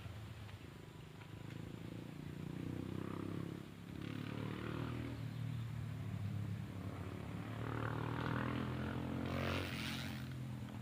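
A small engine running steadily at an even pitch, louder towards the end, with a brief hiss about nine and a half seconds in.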